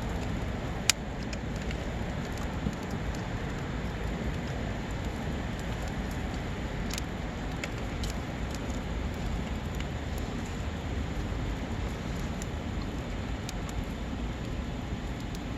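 Wood campfire burning: a low steady rumble with scattered sharp pops and crackles, the loudest pop about a second in.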